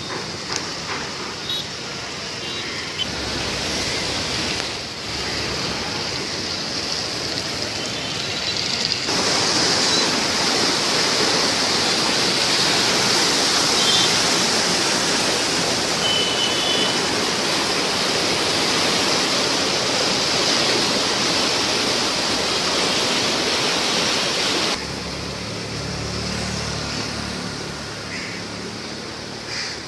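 Rushing floodwater of a swollen monsoon river, a steady loud roar of fast water. It jumps louder abruptly about a third of the way in and drops back abruptly near the end.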